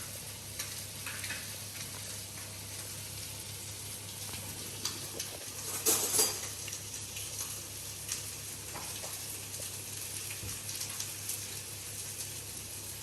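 Food sizzling as it fries in a pan: a steady hiss with scattered small crackles, flaring louder for a moment about six seconds in, over a low steady hum.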